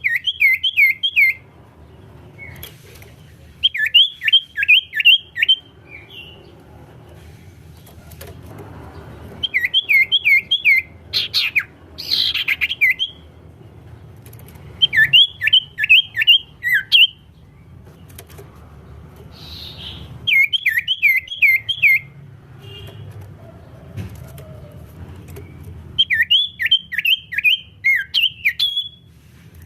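Common iora (cipow) singing in bursts of six or seven quick sliding notes, each phrase lasting a second or two and repeating every few seconds, over a low steady hum.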